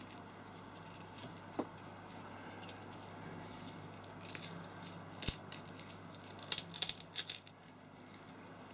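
Scattered light clicks and ticks with some rustling, most of them bunched in the second half, over a faint steady low hum.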